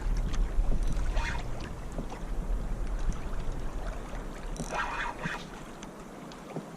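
Wind rumbling on the microphone over open water while a hooked fish is being played from a kayak, with two brief noisy bursts, about a second in and again near five seconds. The rumble dies away about five and a half seconds in.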